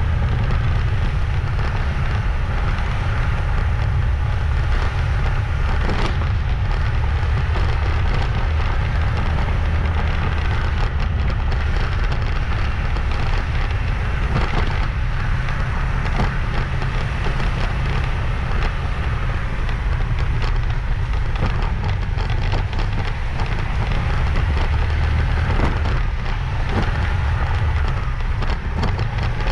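Wind buffeting the microphone of a moving motorbike, a steady rumble with engine and road noise under it, and a few sharp knocks along the way.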